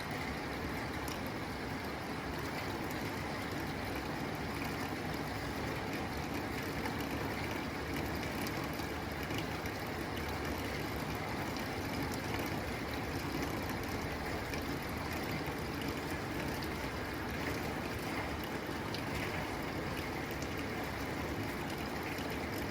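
Steady rain falling on a tin roof: a dense, even patter with scattered sharper drop ticks on the metal.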